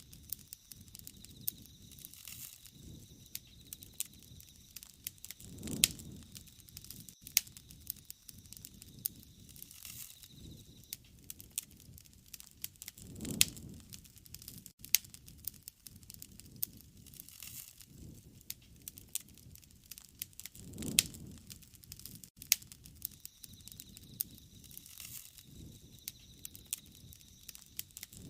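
Wood fire crackling, with frequent sharp pops and a soft low whoosh about every seven or eight seconds.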